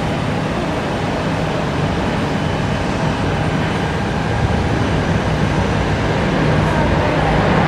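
Jet airliner engines running as a steady rushing noise with a low hum underneath, slowly growing louder.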